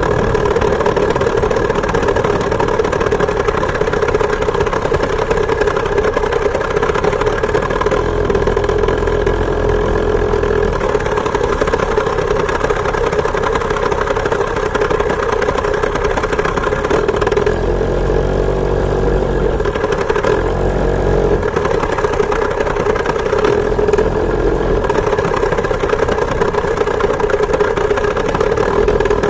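Two-stroke chainsaw engine driving a homemade moped, running steadily at a constant pitch; past the middle its note wavers and dips for a few seconds before settling again.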